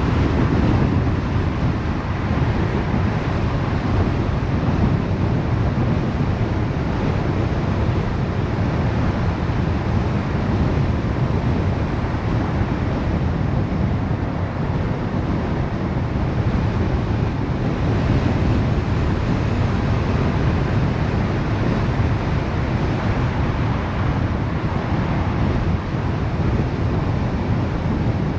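Steady rushing road and wind noise of a car driving at a constant speed.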